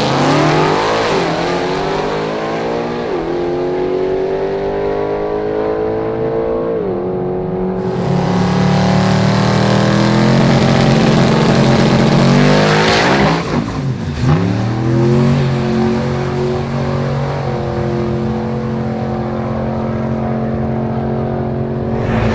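Powerful race car engines running and revving, their pitch sliding down and back up several times, with a sharp dip and recovery in pitch about fourteen seconds in.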